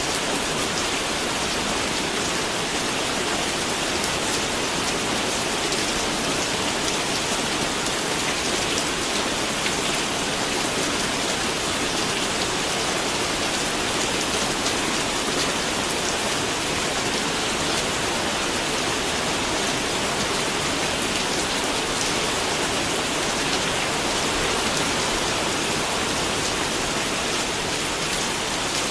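Steady rain falling, a constant even hiss of drops on surfaces.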